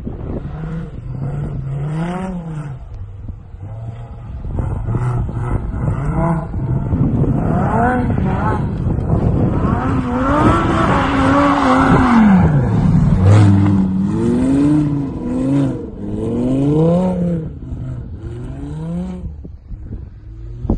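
Lamborghini Huracán Performante Spyder's V10 engine revving up and down repeatedly as the car slides through snow. The revs climb highest and loudest about halfway through.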